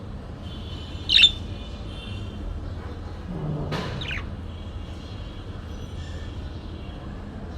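A bird chattering with a high, steady twitter, broken by one loud, sharp squawk about a second in and a shorter falling call near the middle.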